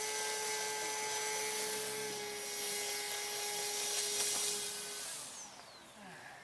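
A small electric motor running at a steady speed with a high hiss, then spinning down with a falling whine about five seconds in.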